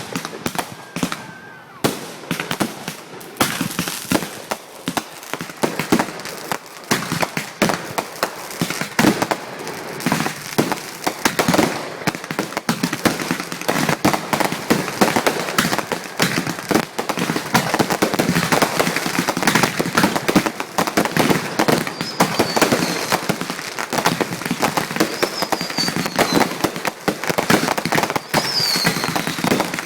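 Fireworks finale: a dense, continuous barrage of bangs and crackling that thickens after the first few seconds, with several falling whistles in the last third.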